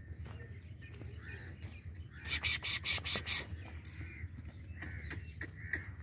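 Birds calling outdoors: scattered short calls, with a harsh rapid burst of about six calls a little after two seconds in, over a steady low background rumble.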